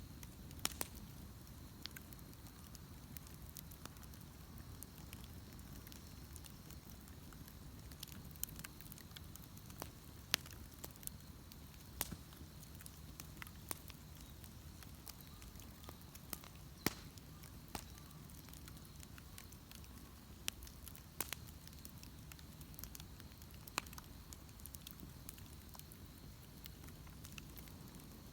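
Wood bonfire crackling: irregular sharp snaps and pops of burning wood, a few louder than the rest, over a steady low background of the fire.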